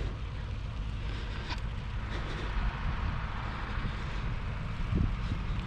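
Bicycle rolling along a rough road, with tyre noise and wind on the microphone, and a couple of short knocks from the bike.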